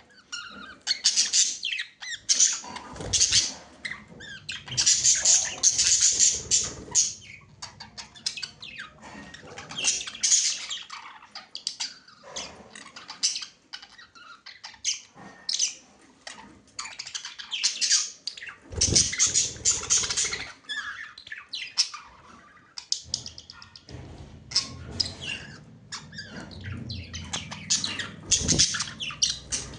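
Pet budgerigars chattering and chirping, in bursts of quick high warbles and squawks with short lulls between.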